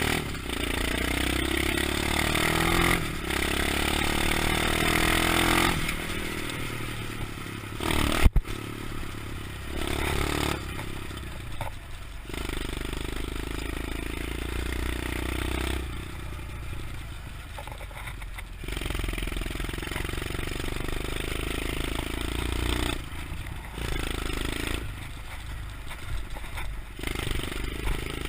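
125cc pit bike engine running and revving as it is ridden, its pitch rising and falling and its level swelling and easing in stretches. A single sharp loud bang just past eight seconds in.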